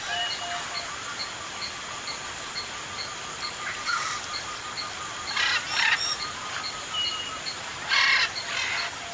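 Forest birds calling, with two loud harsh calls about five and a half and eight seconds in and a few short thin whistles, over a steady high chirping that repeats about three times a second.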